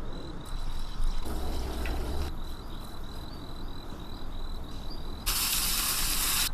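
A steady, high-pitched trill, like an insect's, over a background of outdoor hiss, with a short rush of noise about a second in and a louder rush of hiss that starts suddenly near the end.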